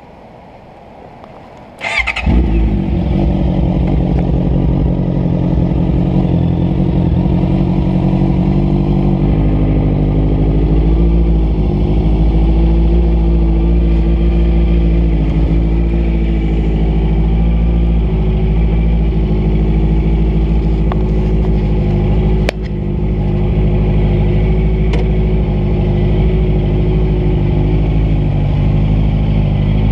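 Honda CBR650F's inline-four engine starting about two seconds in, catching with a short burst, then idling steadily. A brief click and dip in the engine sound come a little past twenty seconds.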